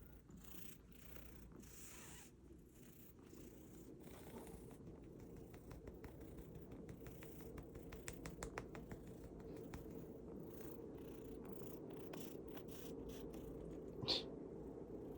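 Domestic cat purring steadily, growing louder over the first few seconds, with a few faint clicks midway and one short, sharp high sound near the end.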